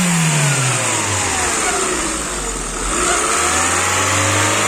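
Citroën Xsara engine, bonnet open, being revved: the revs fall back from a blip at the start, hold low, then climb again near the end. It is being revved to warm up and open the thermostat so the fresh antifreeze circulates through the cooling system.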